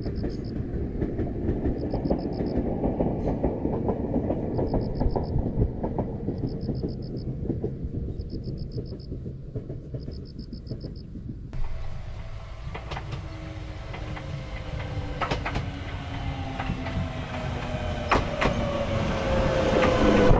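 Ueda Electric Railway electric train, the 6000-series set 6001, running across open fields: first a steady distant rumble, then a closer train coming on with wheel clicks and a falling motor whine, growing louder near the end.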